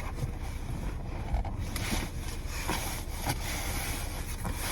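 Steady low rumble of wind buffeting the microphone, with rustling and a few light knocks while someone rummages for gloves.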